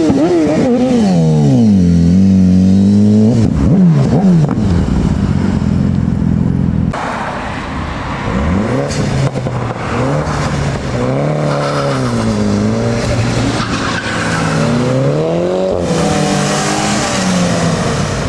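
Modified car engines revving hard as they pull away, the pitch dropping and climbing again through several quick blips of the throttle. From about seven seconds in, a rushing noise joins and engines rev up and down more gently.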